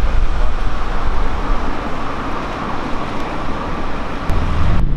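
Loud car engine and street-traffic noise, a dense rushing sound from a car driving close by. About four seconds in, a deeper, steady engine hum comes in, then the sound changes abruptly.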